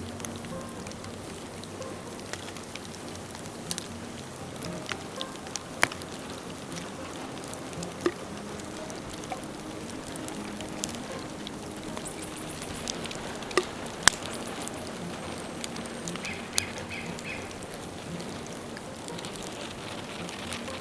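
Burning dead bamboo crackling over a steady hiss, with scattered sharp pops; the loudest pop comes about fourteen seconds in.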